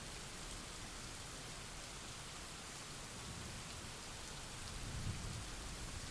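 Steady rain falling, an even hiss. A faint low rumble of thunder swells near the end.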